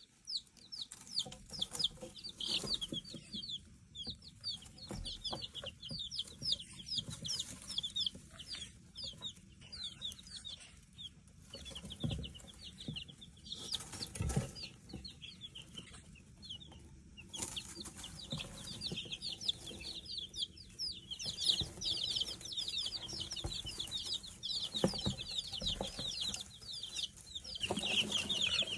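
A brood of young chicks peeping together, many short falling peeps overlapping without pause, growing denser and louder near the end; the chicks are spooked. A few soft knocks sound among them.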